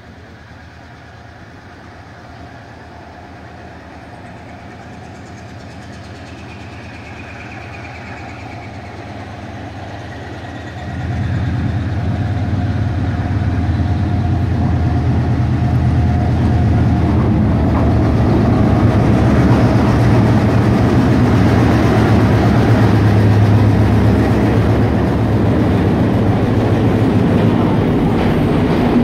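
Sri Lanka Railways diesel locomotive, number 797, approaching and passing through the station with its train of passenger carriages. The engine grows steadily louder, jumps sharply in level about eleven seconds in as it draws alongside, then the passing carriages keep up a loud, steady low rumble.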